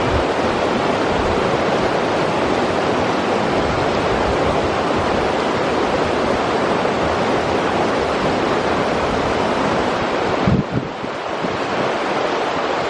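River water rushing steadily in a continuous hiss. About ten and a half seconds in there is a brief low thump followed by a short dip in level.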